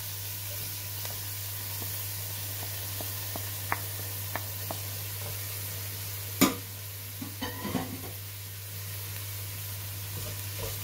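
Chopped onions, garlic and fresh coriander sizzling in hot oil in a stainless-steel pot, stirred with a wooden spoon. Scattered light clicks, with one sharper click about six and a half seconds in.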